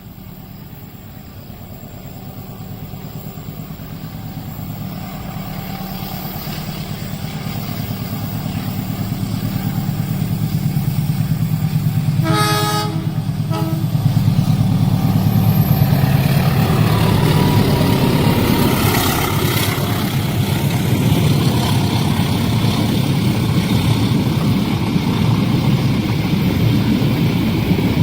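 Train approaching and growing steadily louder, sounding its horn about halfway through in a longer blast followed by a short one, then passing close with a loud steady rumble of wheels on the rails.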